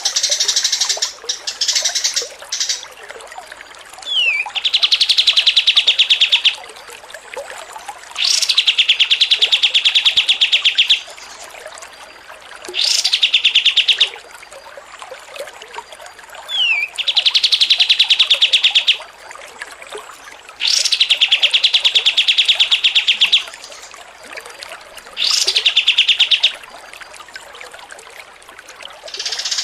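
A songbird singing a repeated phrase: a quick falling whistle followed by a loud, rapid buzzing trill lasting one to three seconds, given about every four seconds.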